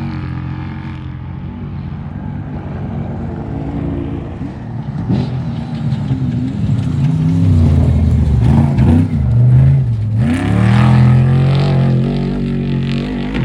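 Off-road race vehicle's engine revving, its pitch rising and falling and growing louder toward the middle, with a brief drop about ten seconds in before it picks up again.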